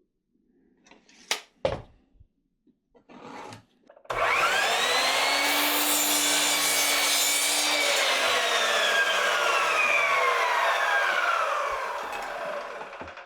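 Power saw whining up to speed about four seconds in and cutting a piece off a cedar fence picket, then winding down and fading near the end. A few light knocks of the board being handled come before it.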